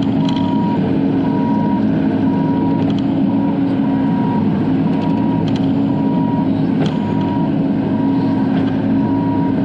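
Bobcat E42 mini excavator running steadily, heard from inside the cab, with a thin squeal coming and going about once a second as the tracks skid through a turn on dirt. The owner is unsure whether the squealing is normal, and says it has done it since new.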